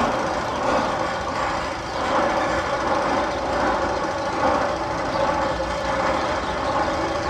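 Continuous rattling, rumbling mechanical sound effect from the Magnum XL 200's tunnel sound system, steady and unbroken.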